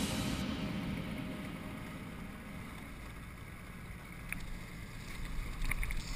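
Steady low rumble of a fishing boat under way while trolling, with wind on the microphone and a few faint clicks near the end.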